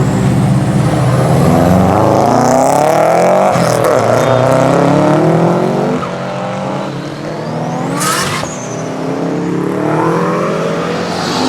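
Engine of a modified car accelerating hard, its pitch climbing again and again as it revs through the gears. About eight seconds in, a high whine rises into a short, sharp burst before the engine climbs again.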